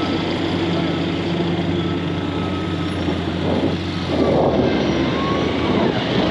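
Road vehicle engine running with a steady low hum, amid street traffic noise. A louder rush of noise comes in about four seconds in as the hum's steady tones give way.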